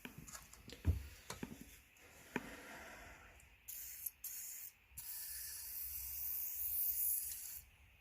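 Aerosol spray can hissing as cleaner is sprayed onto an idle air control valve: two short bursts, then one longer spray of about two and a half seconds. A few clicks and knocks from handling the can and part come before it.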